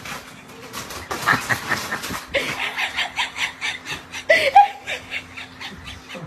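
A person laughing in quick breathy pulses, about four a second, with a few short voiced peaks.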